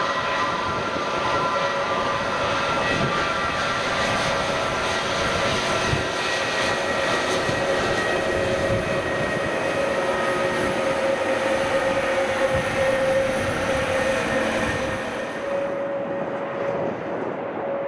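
Jet airliner engines running, a steady roar with a high whine on top. The hiss in the upper range falls away about fifteen seconds in while the lower whine carries on.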